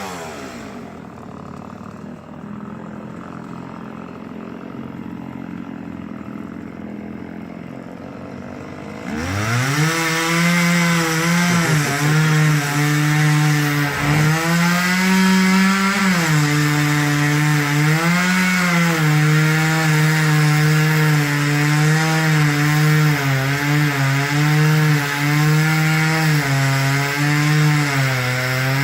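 Two-stroke chainsaw running at low speed for about nine seconds, then revved up hard. It keeps running at high speed, its pitch dipping and recovering again and again as it cuts into wood.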